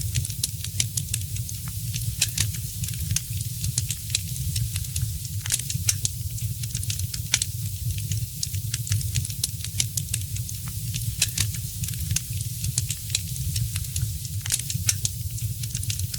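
Wood fire in a fireplace crackling, with frequent irregular sharp pops over a steady low rumble and hiss.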